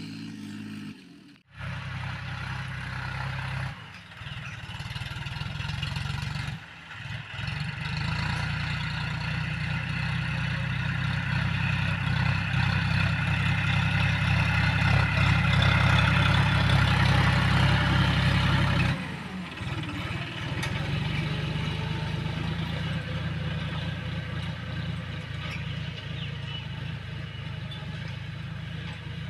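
Tractor engine running under load while ploughing a field, with short breaks early on. It grows louder for about ten seconds, then drops suddenly and settles to a steadier, quieter running.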